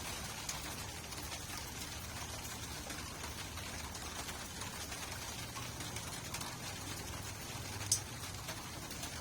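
Steady rainfall: an even hiss dotted with many small drop ticks, and one sharper drop strike about eight seconds in.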